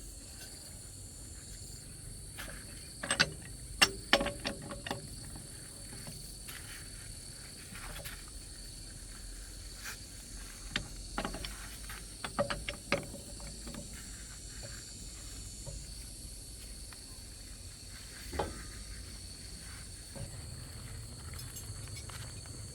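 Scattered sharp knocks and clinks of hand work on metal, in clusters a few seconds in and around the middle, with one more near the end, over a steady high chirring of insects.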